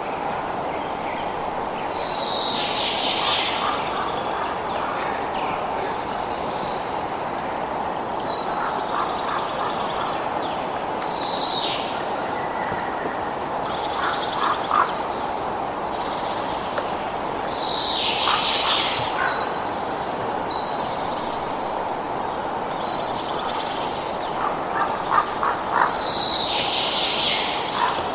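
Birds calling repeatedly: high, falling calls and short whistles come every few seconds over a steady rushing noise.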